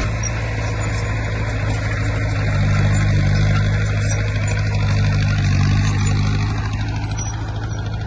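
Heavy construction machine's diesel engine running steadily, swelling in level twice and easing off near the end.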